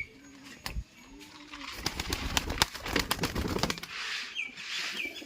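Pigeons cooing in low, arching calls, then a burst of rapid rustling and clatter lasting about two seconds. Near the end come several short, high chirps from small birds.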